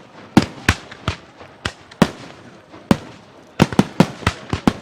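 Aerial fireworks bursting overhead: about a dozen sharp bangs at irregular intervals, each with a short echoing tail, coming in a quick cluster in the last second and a half.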